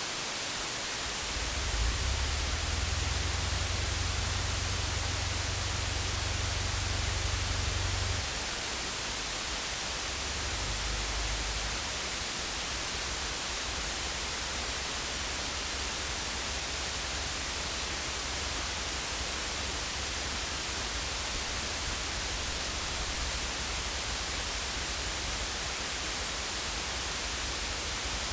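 Steady, even hiss like static, with a low rumble rising under it for several seconds near the start and briefly again a little later.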